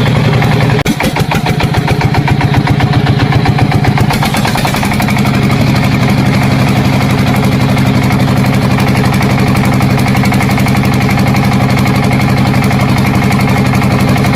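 An engine running steadily at idle, going uneven and pulsing for a few seconds about a second in before settling back to a steady idle.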